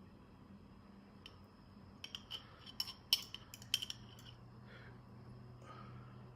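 Scattered light clinks and taps of tableware, a few of them ringing briefly, over a faint steady low hum.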